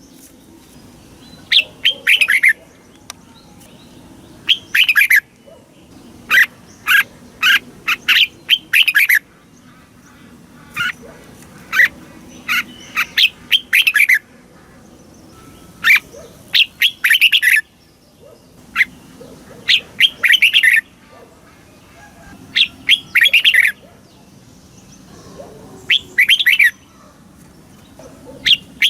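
Red-whiskered bulbul singing: short, bright whistled phrases of a few quick notes each, repeated every two to three seconds with short pauses between.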